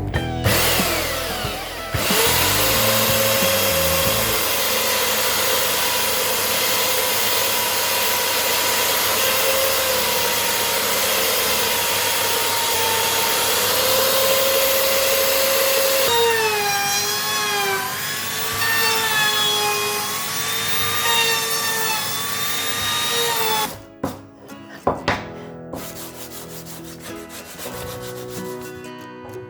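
A satin finishing machine rigged as a drum sander for wooden strips, running and sanding wood. The motor's whine wavers up and down in pitch over a loud rasping noise. Near the end it stops, leaving only quieter sounds.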